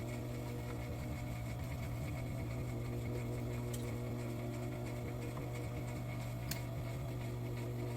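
Steady electric motor hum, typical of an industrial sewing machine's motor running, with no stitching rhythm and a couple of faint clicks.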